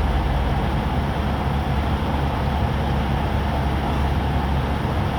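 Steady low engine drone of idling trucks, an even rumble with a constant hiss over it.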